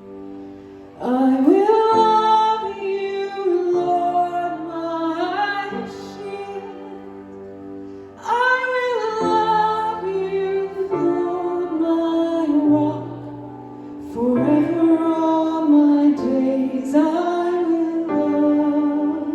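A woman singing a slow song in three phrases over sustained accompanying chords that hold between the phrases.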